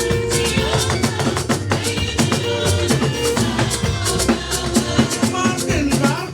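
Church band music accompanying a hymn, with a drum kit and hand percussion keeping a steady beat under pitched instruments.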